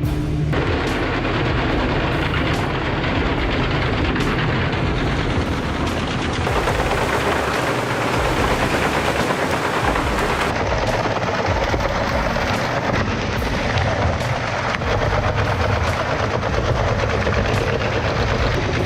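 Large tractor-powered wood chipper feeding and chipping logs. A dense, continuous crackling and cracking of wood being cut sits over the low drone of a heavy engine, and it starts abruptly right at the beginning.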